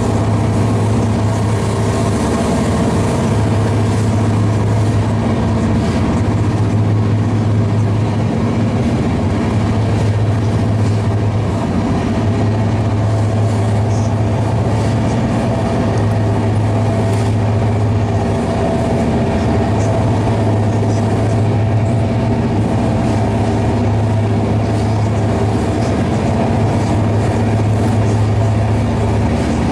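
Steady running noise inside a Shatabdi Express passenger coach at about 150 km/h: wheels on rail, with a constant deep hum.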